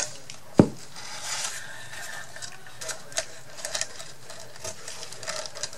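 Craft materials being handled on a worktable: faint rustling with scattered small clicks and taps, the sharpest about half a second in.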